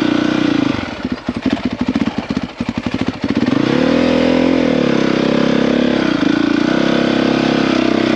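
450 cc four-stroke single-cylinder dirt bike engine chugging unevenly at low revs, close to stalling, then revving up about three seconds in and running steadily as the bike pulls away.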